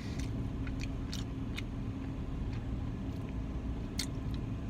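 Steady low hum of a car engine idling, heard from inside the car, with a few light clicks scattered through it.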